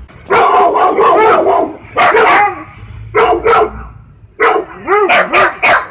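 A dog barking in volleys: a rapid flurry of overlapping barks, then a few single barks, then a quick run of about five barks near the end.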